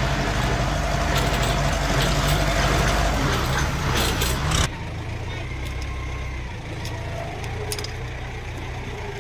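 Tractor engine running loudly with a rough, noisy upper end, then cutting off abruptly a little over halfway through to a quieter, steady engine sound.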